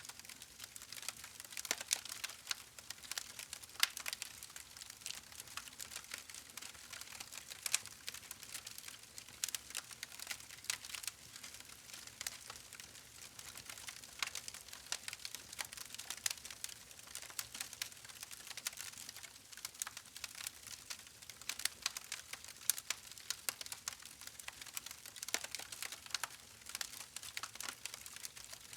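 Wood fire crackling: a dense, irregular run of small pops and snaps over a soft hiss.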